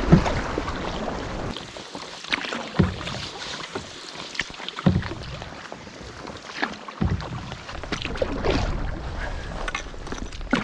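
Canoe being paddled: paddle strokes dipping and splashing about every two seconds, with water sloshing along the hull.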